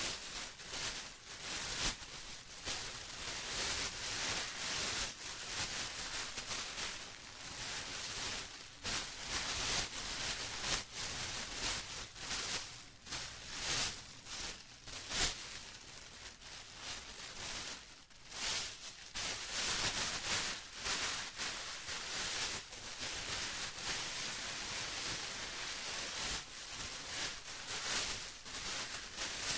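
Plastic rustling and crinkling continuously, a dense run of small crackles with no real pauses.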